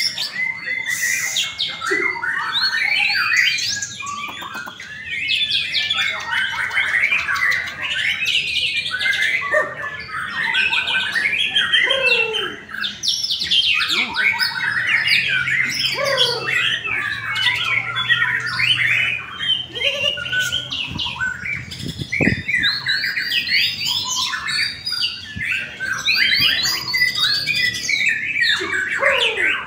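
White-rumped shamas (murai batu) singing continuously. Rapid, overlapping strings of chattering notes and whistled glides, typical of several caged birds singing against each other at a song contest.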